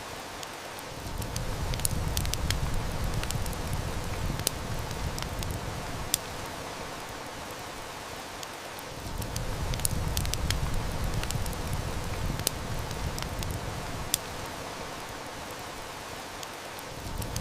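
Heavy rain hissing steadily, with the sharp crackles and snaps of a wood fire scattered through it. Underneath, a low rumble swells up about a second in, dips briefly near the middle, and swells again.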